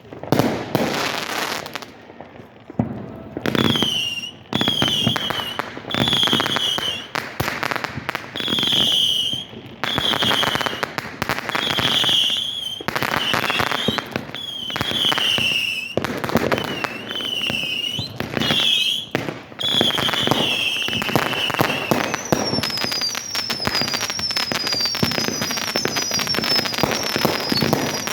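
A fireworks display: a dense series of bangs and crackling, with high whistling tones that fall in pitch through most of it, then a quick run of short, higher falling whistles near the end.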